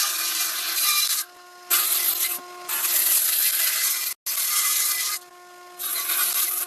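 A woodworking tool rasping across wood in repeated long strokes, each a second or more, with short pauses between them. A steady hum runs underneath.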